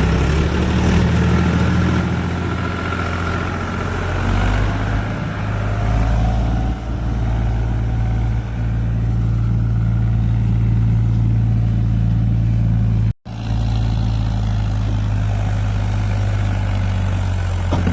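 Heavy farm diesel engine running steadily under load, a low drone. The sound cuts out abruptly for an instant about 13 seconds in.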